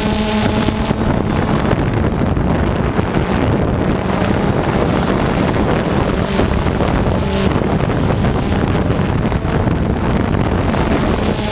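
Motocross dirt bike engine running, largely buried under wind buffeting the microphone, with the engine's tone coming and going through it.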